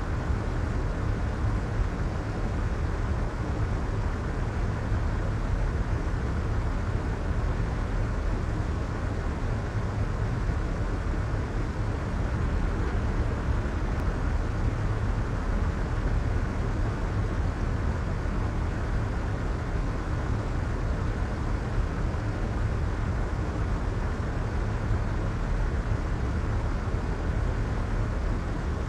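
Steady, soft white noise for sleep: an even hiss weighted toward the low end, with the treble rolled off so it sounds more like a deep rush than a bright hiss. It stays level with no changes.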